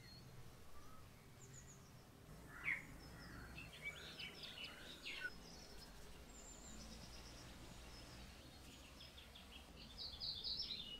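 Birds chirping faintly in quick runs of short high notes, a few seconds in and again near the end, over a low steady outdoor background rumble.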